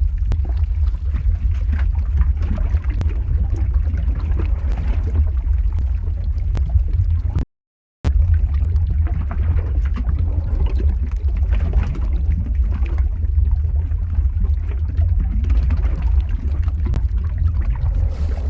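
Lava-flow ambience sound effect: a steady deep rumble with scattered crackles, broken by a brief complete dropout about seven and a half seconds in.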